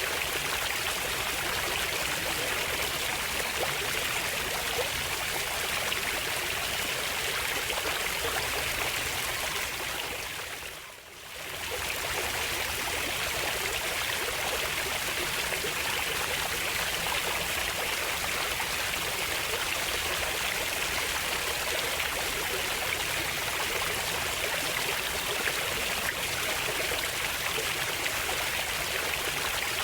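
Water of a stream flowing steadily in an even rushing hiss. About eleven seconds in, it briefly fades down and back up again.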